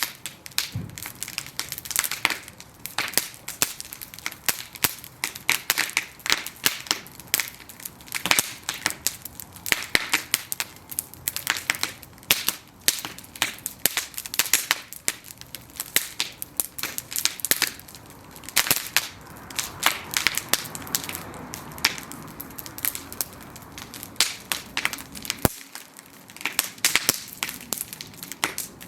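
Wooden planks burning in an open bonfire, crackling and popping with many sharp, irregular snaps over a soft hiss of flame.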